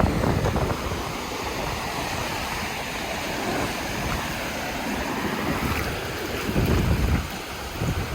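Ocean surf washing on the beach, with wind buffeting the phone's microphone in low rumbling gusts, a strong gust near the end.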